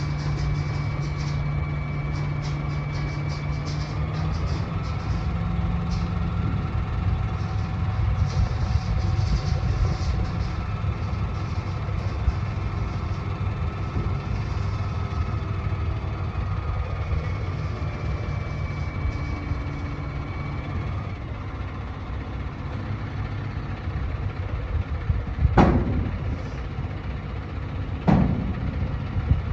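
Kenworth T880 dump truck's diesel engine idling steadily. Two short sharp sounds near the end, about two and a half seconds apart.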